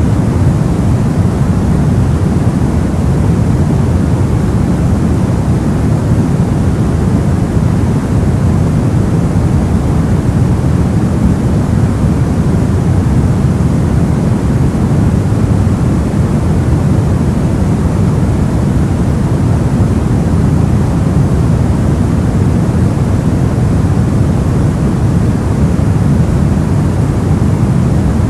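Steady, soft noise of the kind played for sleep, weighted toward the low end so that it sounds like a deep, even rush rather than a bright hiss. It holds unchanged throughout, with no events.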